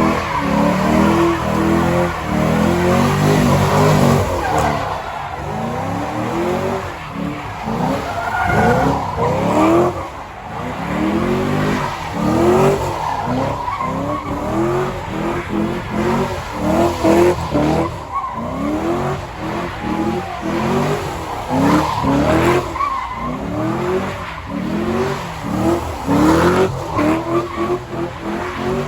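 Drift car's engine revving up and down in quick, repeated throttle bursts while its tyres skid and squeal.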